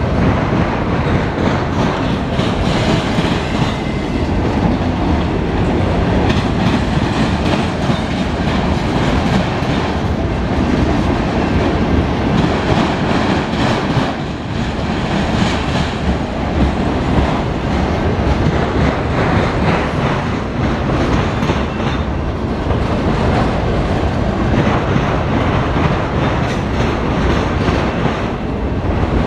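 CSX autorack freight cars rolling past, wheels clacking over the rail joints in a loud, steady rumble.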